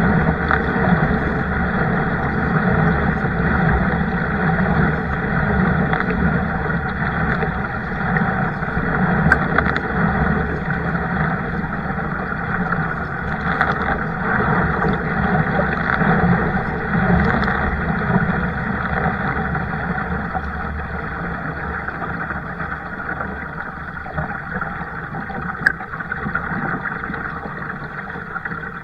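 Steady rushing noise of water and wind around a moving kayak, easing off slightly near the end.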